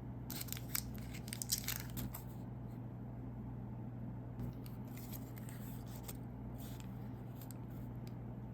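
Plastic snack wrapper crinkling and tearing in quick irregular crackles, densest in the first two seconds and returning briefly twice later, over a steady low hum.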